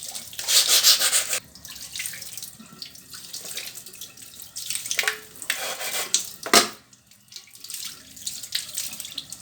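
Water running and splashing as the work area is washed down, coming in irregular bursts, loudest between about half a second and a second and a half in, with a sharp splash about six and a half seconds in.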